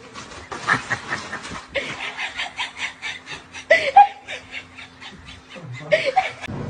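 Person laughing in quick rapid bursts, with a few short rising and falling voiced cries near the middle and end.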